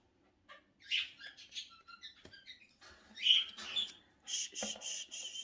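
Pet cage birds, a budgie and cockatiels, chirping and squawking in short high calls, then one longer steady whistled call starting near the end. A single sharp click comes a little past two seconds in.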